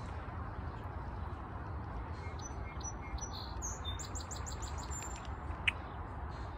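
Songbird calling: a few high thin notes, then a quick run of about six falling notes a little past the middle. A sharp click comes near the end.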